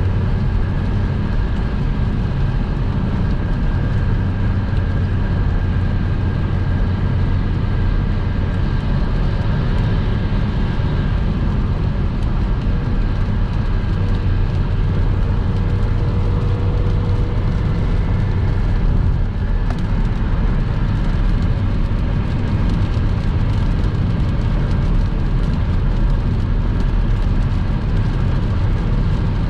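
Car driving at highway speed: a steady low rumble of engine and tyre noise, with a few faint steady tones above it.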